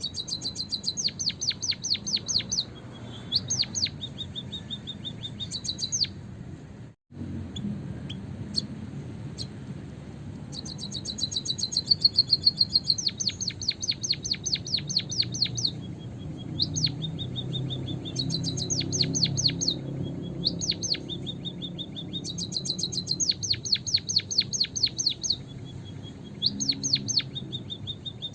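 White-headed munia (emprit kaji) song: runs of rapid high chirps, several a second, repeated in bursts a couple of seconds long with short pauses between. Played as a lure call to attract wild munias. The sound drops out briefly about seven seconds in.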